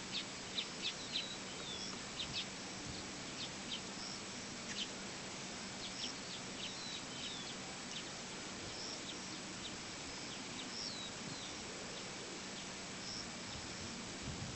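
Small wild birds chirping and calling: many short sharp chirps mixed with swooping whistled notes, over a faint steady low hum and background hiss.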